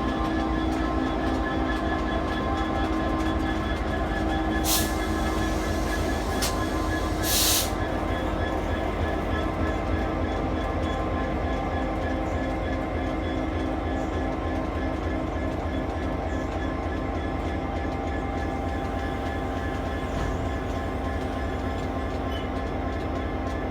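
Diesel-hauled engineers' train running past with a steady rumble and a mix of steady tones. Three short, sharp noise bursts come between about five and eight seconds in.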